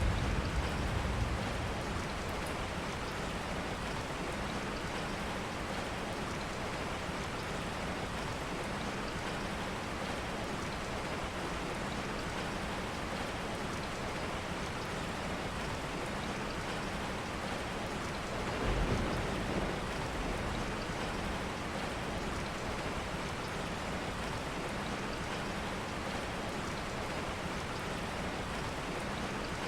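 Steady rain falling, an even hiss of drops, with a low rumble in the first second or so and again about two-thirds of the way through.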